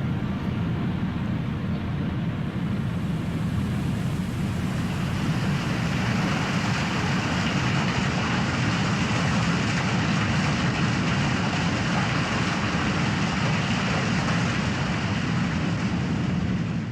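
A loud, steady rushing roar with no rhythm or pitch, filling the low and middle range, growing a little brighter a few seconds in.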